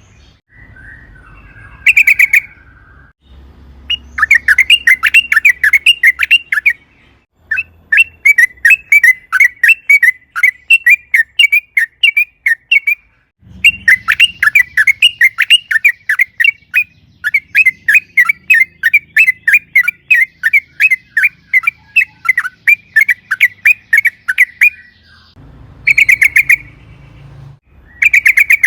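Yellow-vented bulbul (trucukan) singing long runs of rapid, chattering notes, about four a second, with a few short, louder bursts near the start and end. This is the long-rolling 'ropel panjang' song used to provoke other bulbuls into singing.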